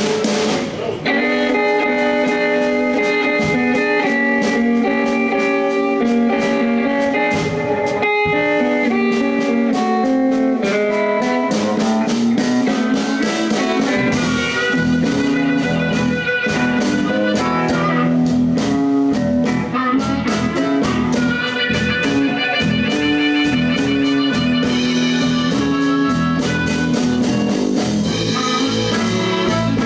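Live blues band playing an instrumental passage: electric guitar over a steady drum beat, with bass coming in about halfway through.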